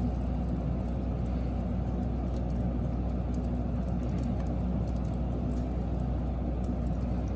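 Wood fire burning: a steady low roar with scattered faint crackles.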